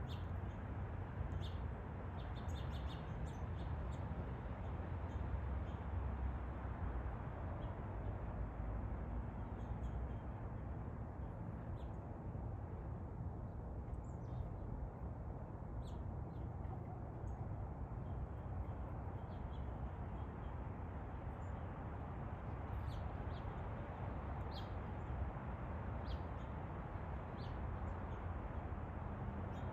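Steady low background rumble with faint, scattered short high chirps of small birds.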